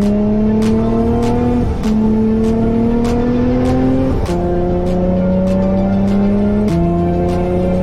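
Vortech-supercharged Nissan G35's V6, fitted with aftermarket headers and exhaust, accelerating hard and shifting up through the gears. The engine pitch climbs and drops sharply at each upshift, three times. A steady beat runs underneath.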